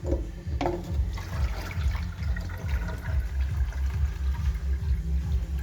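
Water running, over a strong, uneven low throbbing.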